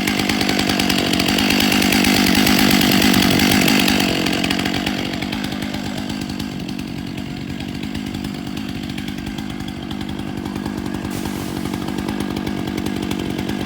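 Chainsaw running, louder for the first few seconds, then easing to a lower, steadier level.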